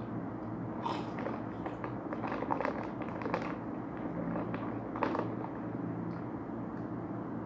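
Crunching of crisp corn puff snacks being chewed: irregular crackling clicks, busiest in the middle, over a steady low hum.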